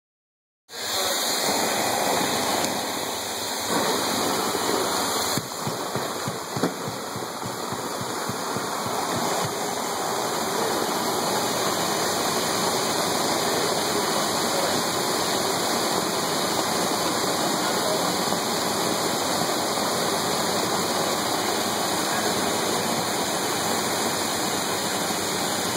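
Hurricane 500 industrial vacuum, a Roots 616 blower driven by a John Deere diesel, sucking loose vermiculite insulation out of a wall cavity: a loud, steady rush of air that starts abruptly about a second in. Scattered ticks and clicks come through in the first ten seconds or so.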